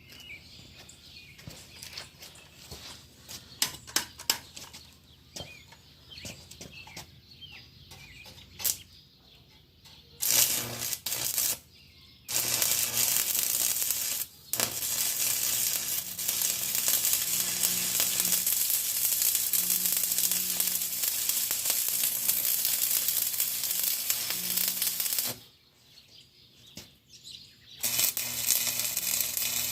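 Stick (arc) welder welding steel at about 70 amps. A few scattered clicks and knocks come first. About a third of the way in the arc strikes, sputters and crackles steadily for around thirteen seconds, stops for a couple of seconds, and strikes again near the end.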